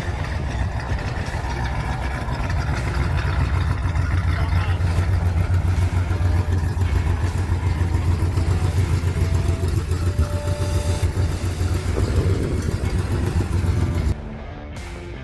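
Car engine running with a steady, deep low rumble that grows slightly louder over the first few seconds. It cuts off abruptly about 14 seconds in, and music begins.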